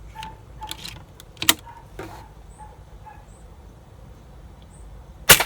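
A single sharp air rifle shot near the end, preceded by a few quieter mechanical clicks from handling the rifle.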